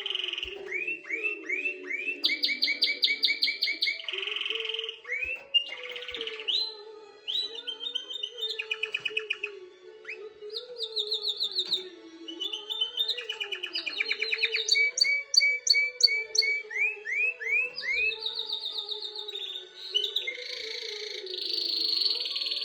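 Domestic canary singing a continuous song of rapid trills and rolls, each phrase a fast run of the same note repeated before switching to the next. A faint, low wavering tone runs underneath.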